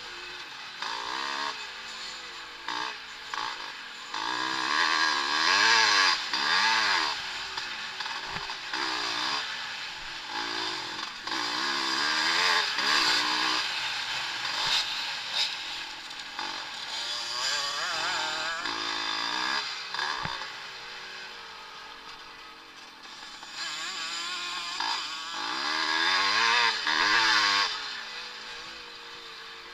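Several vintage motocross motorcycles racing on a dirt track, their engines revving up and down as riders accelerate, shift and back off. The loudness swells as bikes pass close and fades as they ride away.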